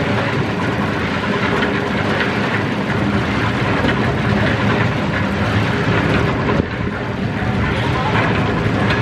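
A machine engine running steadily, with a rattling, clattering mechanical noise over it and a short dip about six and a half seconds in.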